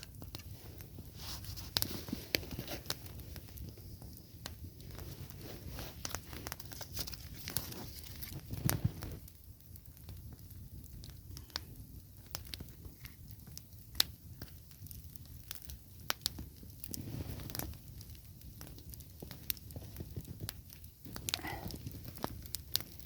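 A small campfire of willow sticks and burning bark catching, crackling with scattered sharp pops, with a few soft low bumps.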